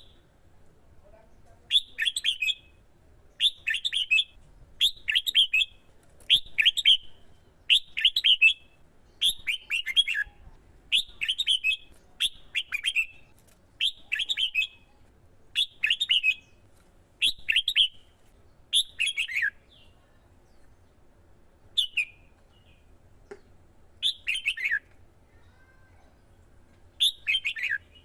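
Red-whiskered bulbul singing short, loud, repeated whistled phrases about every second and a half, in the fired-up competitive song bird keepers call hót đấu; the phrases pause for a few seconds near two-thirds of the way through, then resume.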